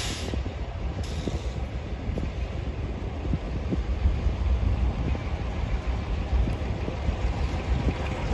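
Freight train rolling through: a steady low rumble with scattered faint wheel knocks, and a brief hiss right at the start.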